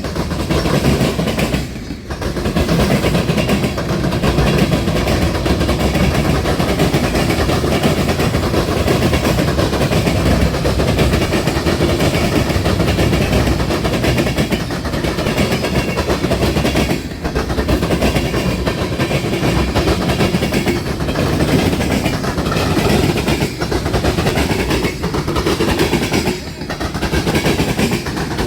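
Train passing, its steel wheels clattering over the rail crossing diamond: a steady, loud run of rapid clatter with a few brief lulls.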